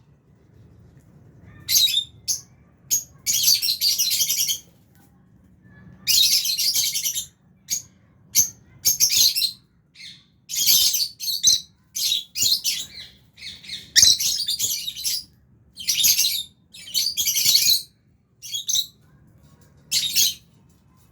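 Lovebirds chattering and chirping in repeated high-pitched bursts, each a second or so long, with short pauses between.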